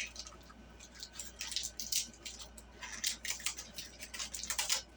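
Hands handling a small dry-erase board and its packaging: a run of irregular crinkles, rustles and light clicks.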